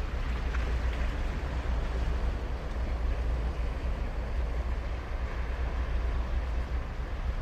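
Surf breaking and washing on a sandy beach, a steady unbroken roar of waves with low wind rumble on the microphone.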